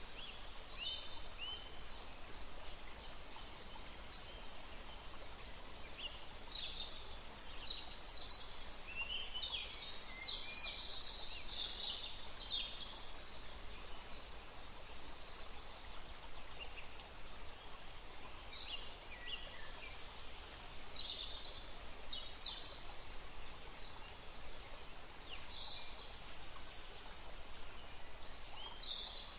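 Woodland ambience: several small birds chirping and calling in short, quick phrases over a steady soft hiss. The calls come thickest around ten to thirteen seconds in, and again around eighteen to twenty-three seconds.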